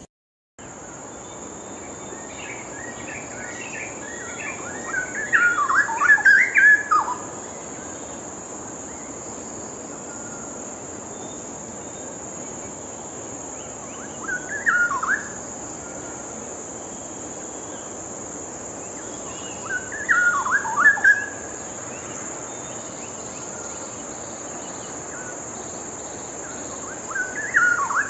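Straw-headed bulbul (cucak rawa) singing: four short, loud, warbling phrases spaced several seconds apart, over a steady high-pitched insect drone.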